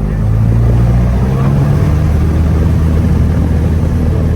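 Cessna 172's piston engine and propeller running, a loud steady drone heard inside the cabin, its pitch shifting slightly in the first couple of seconds and then holding.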